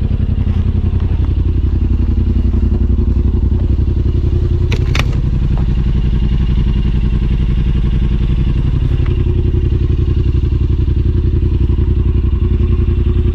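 Side-by-side UTV engine running steadily on the trail, with a short sharp knock about five seconds in.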